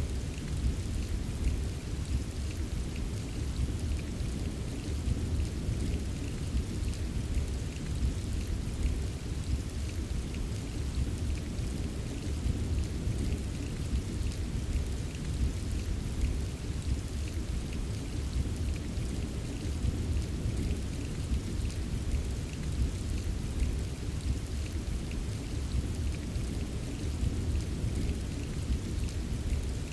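Steady rain falling, with a continuous low rumble underneath and faint scattered drop ticks on top.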